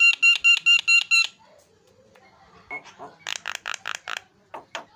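Javan myna calling. It opens with a fast run of clear, ringing repeated notes, then pauses. From about three seconds in it gives a string of harsher, rasping repeated notes.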